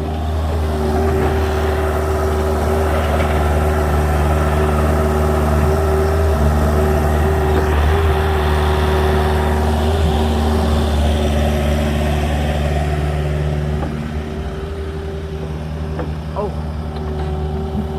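Agricultural mini excavator's diesel engine running steadily under load, easing off about three-quarters of the way through.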